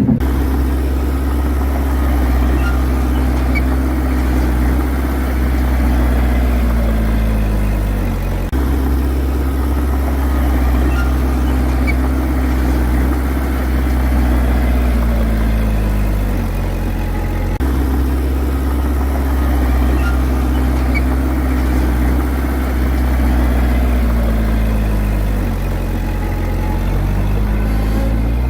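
Heavy diesel engine of earthmoving machinery running steadily. Three times, its pitch slowly sags and then jumps back up, as when the engine comes under load and then eases off.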